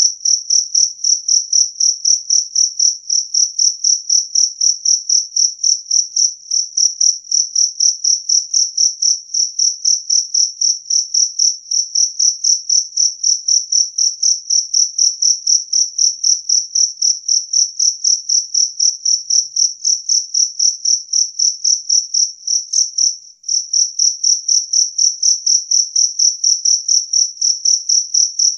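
A male jangkrik kalung (two-spotted cricket) stridulating: loud, evenly repeated high-pitched chirps in a fast steady rhythm, with one brief break late on.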